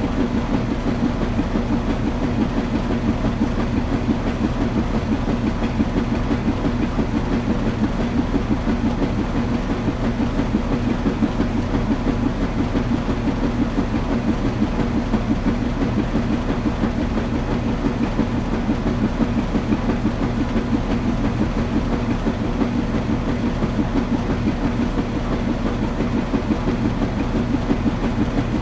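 Washing machine running: a steady mechanical hum with a fast, even pulsing throughout.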